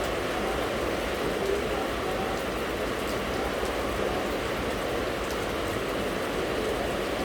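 Steady rain falling, an even hiss with fine drop ticks and no pauses.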